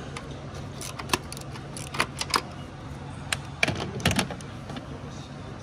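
Scattered sharp metallic clinks and clicks of hand tools and small parts, with a cluster of them near the end, over a steady low hum.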